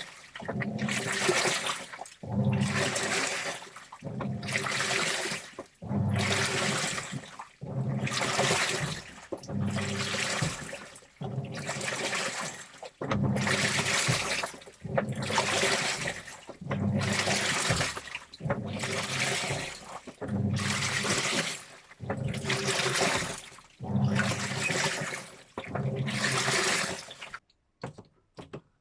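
Washing machine drum turning a load of T-shirts through water, a sloshing swish with motor hum about every second and a half, stopping abruptly near the end.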